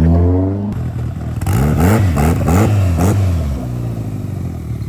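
Car engine revving: one rising pull that cuts off abruptly, then a string of quick throttle blips, the pitch jumping up and falling back about five times. It then settles to a steady idle.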